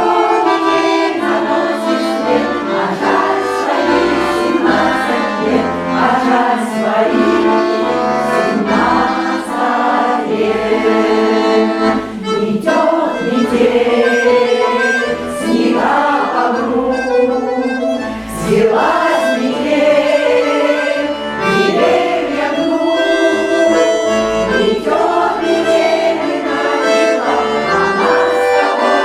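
Russian folk choir singing with accordion accompaniment.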